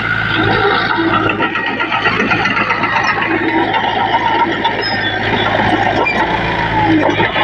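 Komatsu D20P bulldozer's diesel engine running steadily under load, with busy metallic clatter over the engine hum.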